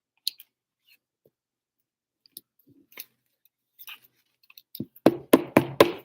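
Trading cards being handled on a table: a few light scattered clicks, then about five sharp knocks in quick succession near the end.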